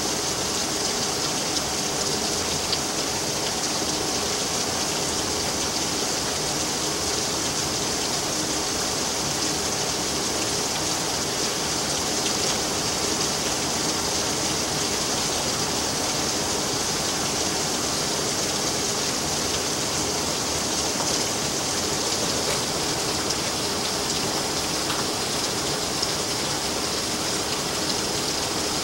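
Storm rain falling steadily in a heavy downpour, with a faint low hum beneath it.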